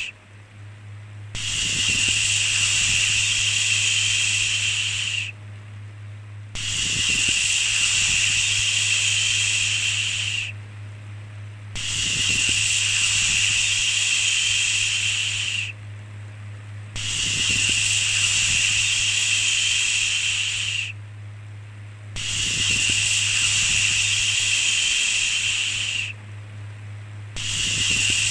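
Drawn-out shushing 'shhh' sounds, each lasting about four seconds with about a second's pause between them, repeating evenly over a steady low hum.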